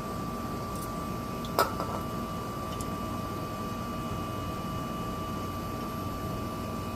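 Steady mechanical hum with a thin high tone running through it. One sharp click comes about one and a half seconds in, with a couple of lighter taps just after, from tools being handled at a car's front brake.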